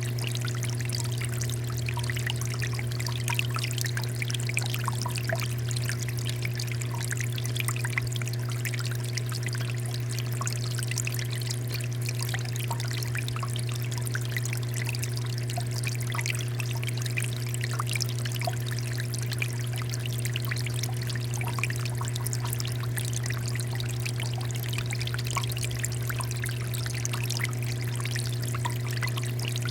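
Water fountain splashing and trickling steadily, with many small droplet patters, over a steady low hum.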